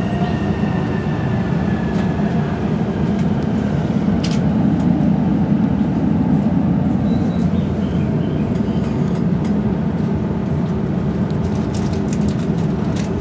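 E231-series electric train heard from inside the passenger car: a steady low rumble of the wheels and running gear, with a few faint clicks.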